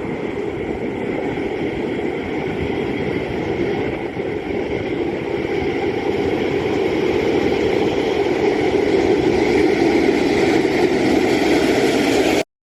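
MBTA Red Line Pullman-Standard 01500/01600-series rapid transit car running, a steady rumble that slowly grows louder, then cuts off abruptly near the end.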